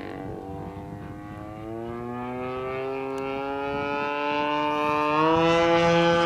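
Giant-scale RC P-40's DLE 55 single-cylinder two-stroke gas engine droning in flight, its pitch rising slowly and getting louder, with a further step up in pitch and loudness about five seconds in.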